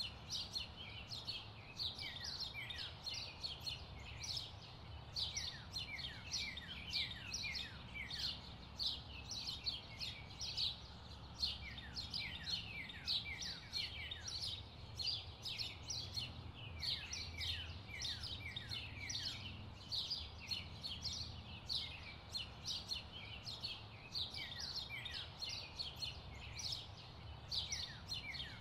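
Birds chirping without pause: many short, quick chirps that fall in pitch, several a second, over a low steady hum.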